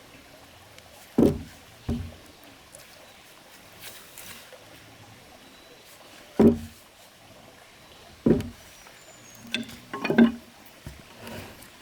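A handful of dull knocks, irregularly spaced, with a quick cluster of them near the end.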